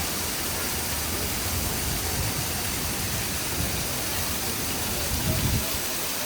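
Steady rushing hiss of falling water, with a brief low rumble swelling about five seconds in.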